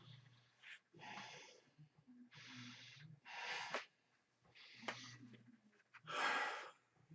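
A person breathing hard, with about five heavy breaths, each roughly half a second long.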